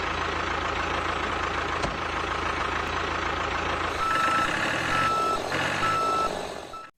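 Heavy vehicle engine running with a steady rumble, joined about four seconds in by a reversing alarm beeping about once a second.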